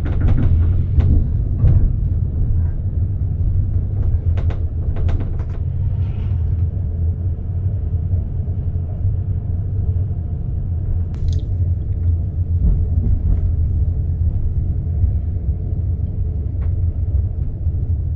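Steady low rumble of railway equipment at a standing train, with several sharp clanks in the first few seconds and a brief high squeak about eleven seconds in.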